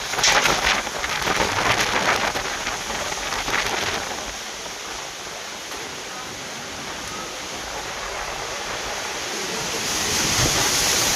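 Heavy rain falling, loud and uneven with spattering for the first few seconds, then settling into a steady hiss that swells again near the end.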